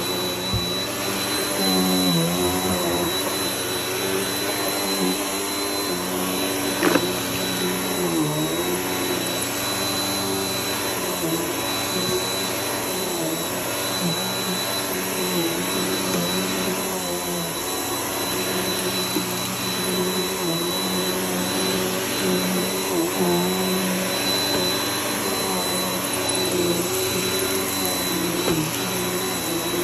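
Vacuum cleaner running continuously, with a thin high whine and a lower motor hum that wavers in pitch. One sharp click comes about seven seconds in.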